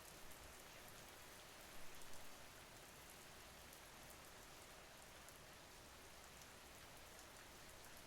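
Steady, faint rain: an even hiss of falling rain with fine drop ticks, and a few louder drops about two seconds in.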